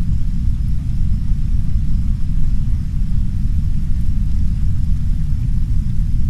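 Heavy brown noise: a steady, deep, even rumble with no pitch or rhythm, under a much fainter hiss of soft rain on a window.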